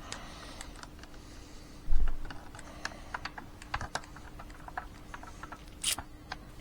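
Irregular light clicks and taps of hands handling small plastic parts, with a dull thump about two seconds in and a short scratchy burst near the end.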